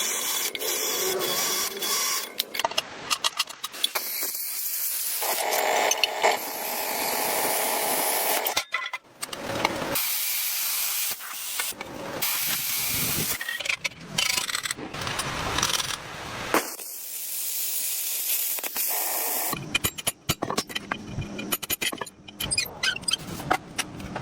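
Hissing, noisy workshop tool sounds in short segments that change and cut off abruptly every second or two.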